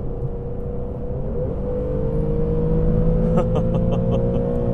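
The 2015 Infiniti Q60's 3.7-litre naturally aspirated V6, heard from inside the cabin at highway speed, its note climbing slowly as the car accelerates over a low road rumble. A quick run of light ticks near the end.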